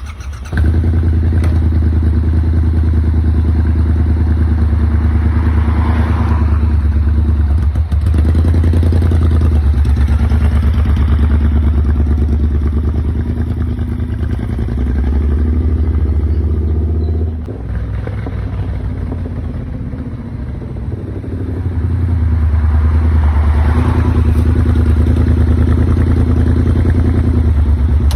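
Triumph Bobber motorcycle's parallel-twin engine starting up about half a second in and running steadily. Past the middle it drops quieter for a few seconds, then picks up again.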